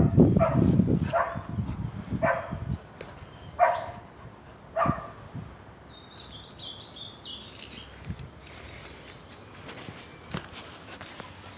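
A dog barking five times, about once a second, the barks getting fainter, followed by a few faint high bird chirps.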